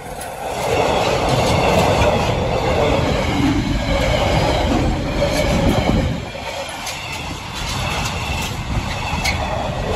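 Train passing close by on the line over the level crossing: a steady rumble of wheels on rail with scattered sharp clicks, loudest in the first half and easing slightly after about six seconds.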